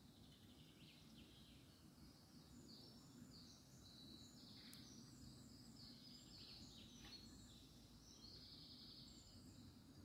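Faint birdsong: many short, high chirps and trills from small birds, over a low steady background rumble.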